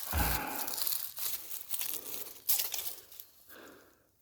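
Irregular crackling and rustling, like dry material being crushed or brushed, with a brief low thump at the start; it fades away near the end.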